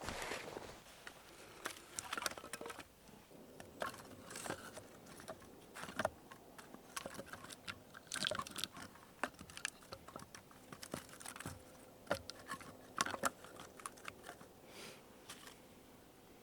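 A series of irregular, close-up crunching and clicking sounds.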